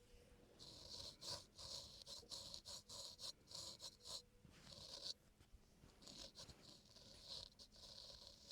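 Razor blade scraping across a man's facial skin in quick, short, repeated strokes, a soft rasp, as the face is shaved clean of fine hair and dirt. The strokes come in a run, pause briefly about five seconds in, then start again.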